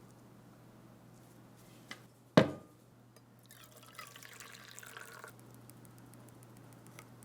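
A single sharp metallic clank with a brief ring about two seconds in, followed a second later by about two seconds of hissing, liquid-like noise.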